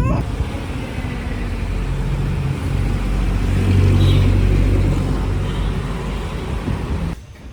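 Road vehicle engine and traffic noise with a steady low hum, growing louder to a peak about halfway through and then easing off; it cuts off abruptly near the end.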